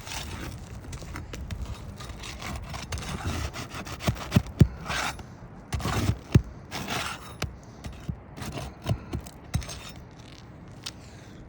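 Asphalt roof shingle being worked loose by hand and with a tool: scraping and rubbing of the shingle, with several sharp knocks and clicks, the loudest near the middle.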